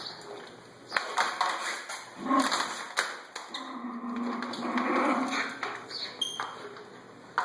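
Schnauzer vocalizing in short irregular bursts of barks and growls, with a longer low growl in the middle.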